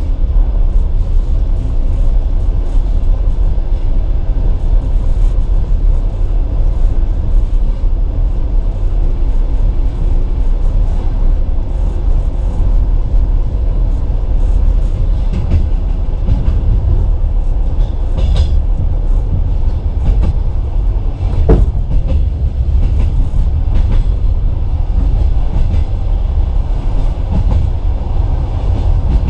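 Passenger coach running along the track, heard from inside the carriage: a steady low rumble of wheels on rails, with scattered ticks and a few sharper clicks from wheels passing rail joints and points.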